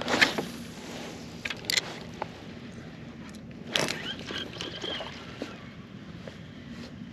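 Kayak paddling: a few sharp splashes and knocks, the loudest just after the start and again about four seconds in, over light water lapping against the hull.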